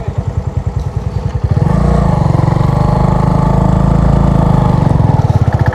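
Motorcycle engine running at low revs with an even pulsing beat, then opening up about one and a half seconds in to a louder, steady pull as the bike accelerates.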